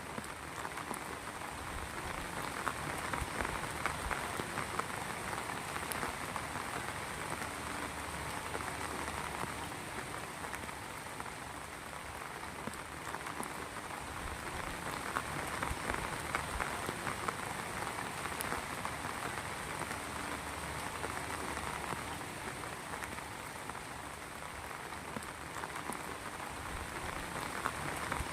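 Heavy rain falling steadily, a dense patter of drops hitting surfaces, swelling and easing a little every few seconds.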